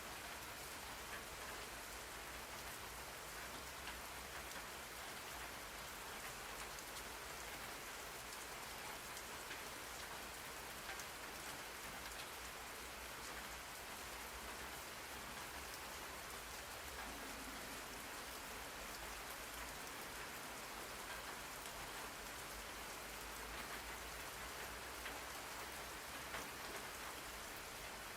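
Steady rain falling on a surface, an even wash of noise with scattered drops.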